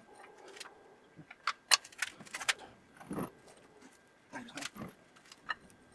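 Metal hand tools clinking and clattering in irregular, sharp clicks and knocks, with the loudest cluster between about one and a half and two and a half seconds in.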